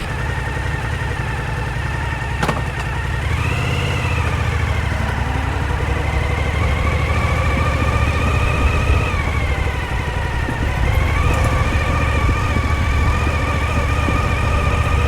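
Suzuki SV1000's 90-degree V-twin engine running, its pitch rising and falling a few times as the throttle changes, over a steady deep rumble. A single sharp click about two and a half seconds in.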